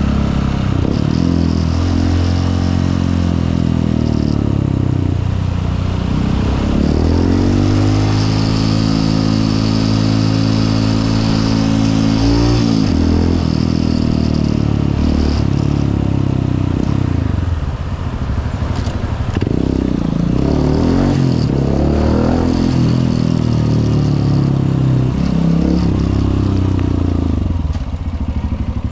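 Honda CRF150L's single-cylinder four-stroke engine running while riding, its pitch repeatedly rising and falling as the rider accelerates, shifts and eases off. A long, gradual climb in pitch in the middle breaks off suddenly at a gear change.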